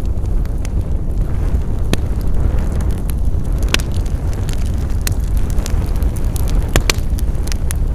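Wood fire burning: a steady low rumble of flames with sharp crackles and pops scattered through, the loudest pop a little before four seconds in and two close together near seven seconds.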